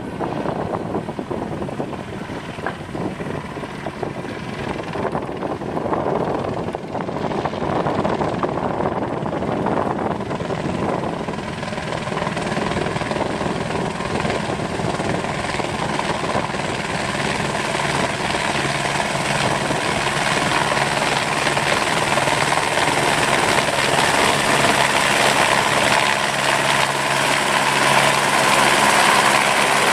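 Helicopter running, growing steadily louder, with a steady low hum coming out more clearly about halfway through.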